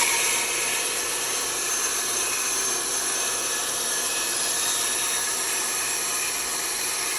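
Band saw running and cutting through wood, a steady, even sawing noise with no let-up.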